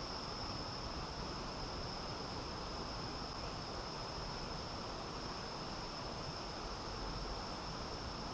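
Steady rushing of a flowing river, with a continuous high-pitched insect trill held on one note above it.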